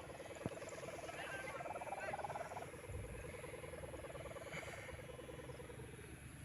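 Sendaren kite hummer droning on a flying gapangan kite: a faint, pulsing buzz that drops in pitch about two and a half seconds in and fades out near the end.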